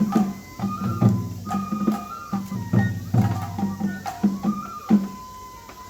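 Japanese festival music (matsuri-bayashi) for a shishimai lion dance: drums struck in a quick, uneven pattern, with a flute holding high notes and stepping between them.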